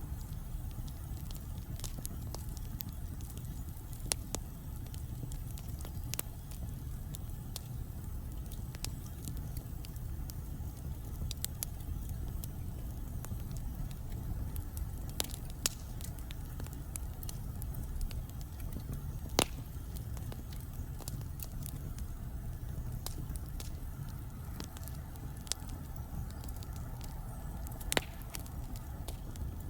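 Wood fire burning in a fireplace: a steady low rumble of flames with frequent small crackles and a handful of louder sharp pops.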